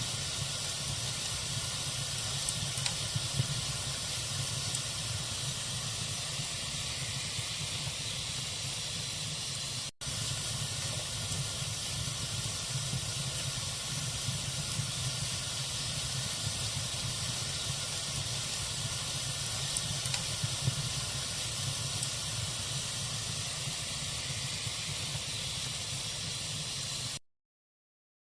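Log fire in a fireplace burning with a steady hiss and scattered small crackles and pops. The sound drops out for an instant about ten seconds in and cuts to silence shortly before the end.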